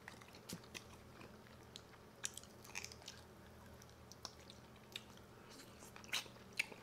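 Close-miked chewing and mouth sounds of people eating chicken wings: faint, scattered soft clicks and smacks a few times a second apart.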